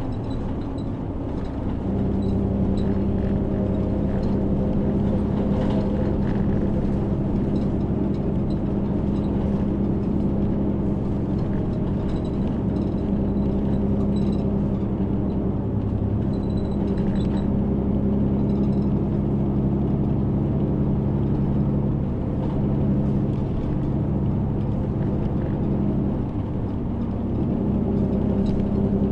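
City route bus under way, heard from inside: its engine drones steadily over road noise, the engine note strengthening about two seconds in and holding.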